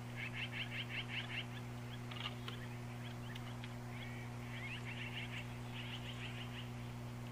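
Small birds chattering in quick runs of short, high chirps, three runs in all, over a steady low hum.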